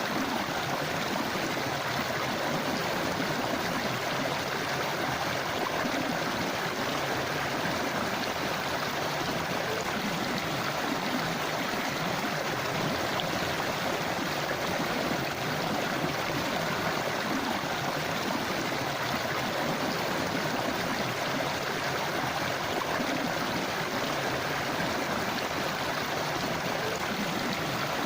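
Forest river flowing: a steady rush and gurgle of water running over rocks, even throughout.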